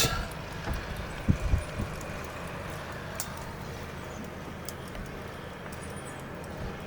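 Steady low engine rumble of a neighbour's snowblower running at a distance, under wind noise, with a few faint knocks.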